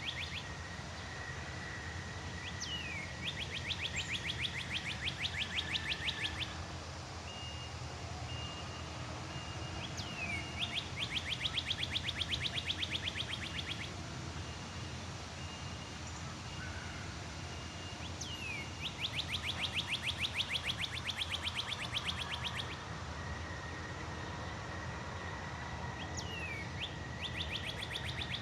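A songbird repeating the same song four times, about every seven to eight seconds. Each song is a quick falling whistle followed by a rapid trill of fast notes lasting about three seconds. Behind it run a thin steady high tone and a low background rumble.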